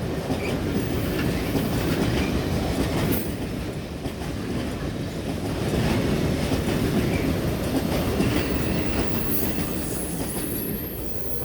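Freight train rolling past with a steady low rumble and wheels clattering over rail joints. Brief high-pitched wheel squeals come about three seconds in and again near the end.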